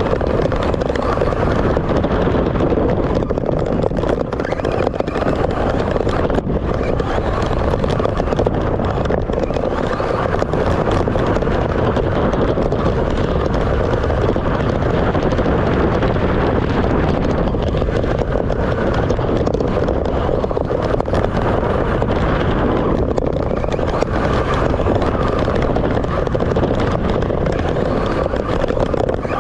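Radio-controlled cars running on an off-road track: a steady, dense motor noise with a few faint sharp knocks.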